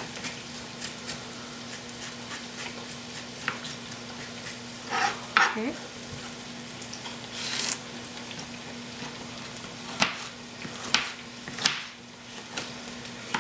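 Onions and tomato frying in olive oil in a saucepan, a steady sizzle under a steady low hum. Near the end, three sharp knife chops on a cutting board as a banana pepper is cut into pieces.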